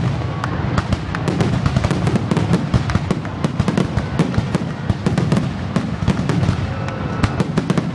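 Fireworks finale: a dense, unbroken barrage of aerial shell bursts and crackle, many reports a second over a continuous rumble, with a few short whistles from rising shells.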